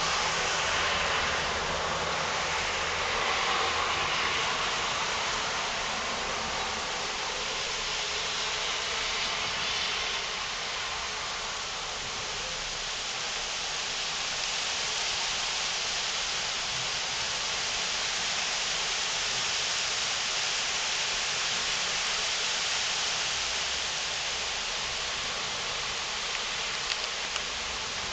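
Heavy thunderstorm rain pouring steadily onto trees, bushes and pavement, an even hiss, with a couple of small ticks near the end.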